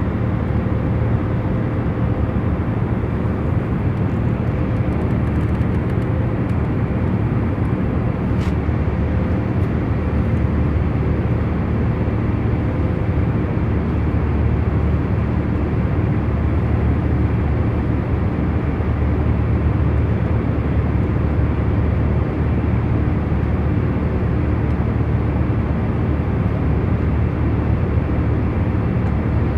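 Airliner cabin in cruise: the aircraft's steady low rumble and airflow hum, with a faint engine drone. It stays even throughout, apart from one faint tick about eight seconds in.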